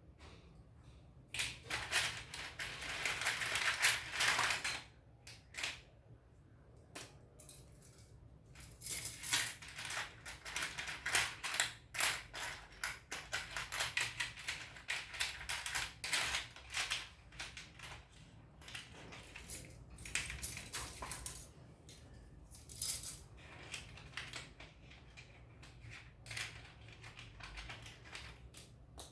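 Small construction-kit parts clicking and clattering as they are handled and fitted together, in quick irregular bursts, with a longer stretch of clattering near the start.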